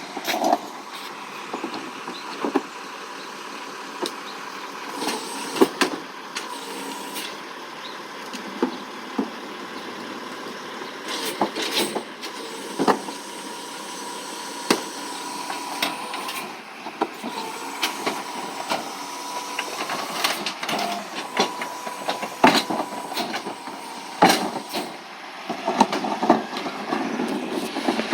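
Recycling truck running, a steady whine under frequent sharp rattles and knocks.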